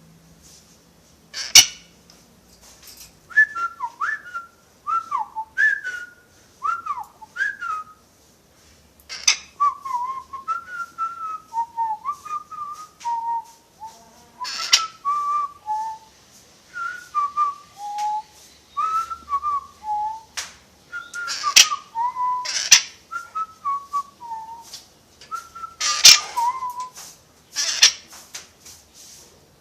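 Pet parrot whistling a tune in short, clear notes that slide up and down in phrases, with several sharp, loud clicks or squawks between the phrases.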